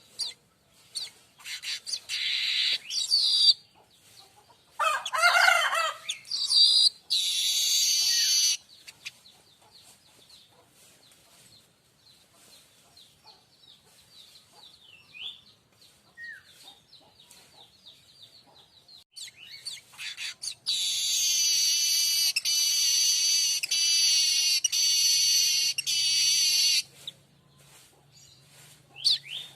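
Streaked weaver singing: bursts of high chattering in the first several seconds, a quieter stretch with a few faint calls, then a long buzzing, wheezy phrase of evenly pulsed notes lasting about six seconds.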